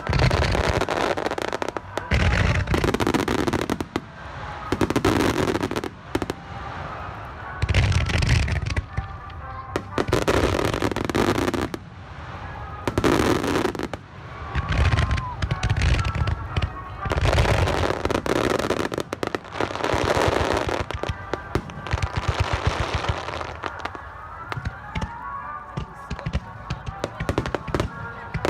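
Fireworks display heard from close by: aerial shells bursting with deep booms every second or two, with dense crackling and popping in between.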